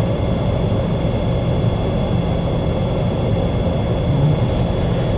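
Wind buffeting the microphone outdoors: a steady, low noise without breaks.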